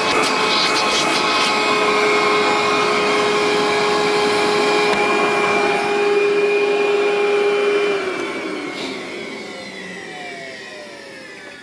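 Amway CMS 1000 upright vacuum cleaner's motor running at a steady high whine. About eight seconds in it is switched off and winds down, its pitch falling as it coasts to a stop. The owner says its motor bearings are worn.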